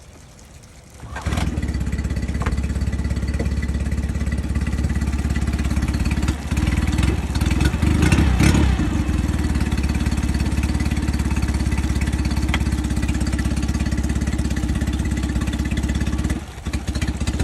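2015 Mercury 8 hp four-stroke outboard motor pull-started, catching about a second in and running steadily, with a brief rev-up in the middle. The sound drops away about a second before the end.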